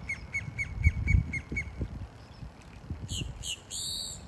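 Bird calls by the water: a steady series of short chirps, about four a second, that stop about halfway through, then a few harsh squawks near the end, the last one longer. A couple of low thumps about a second in.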